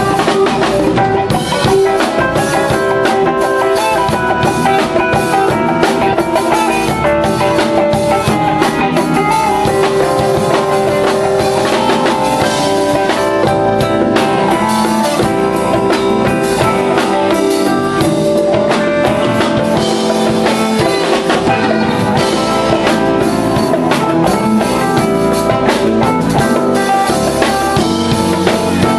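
A band playing with a drum kit keeping a steady beat under guitar and sustained keyboard and bass notes.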